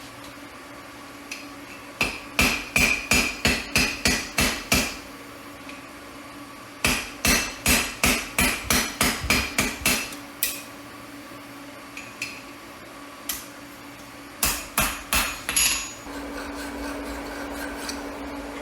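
Hand hammer striking hot steel on an anvil: runs of ringing blows at about three a second, separated by pauses and single strikes. A steady hum starts near the end.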